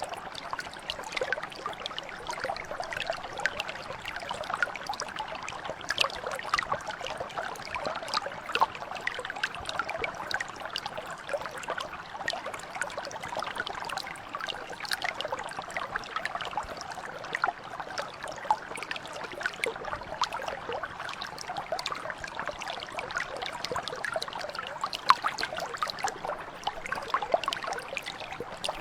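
Mountain brook flowing steadily over stones, with constant burbling and many small splashes and trickles.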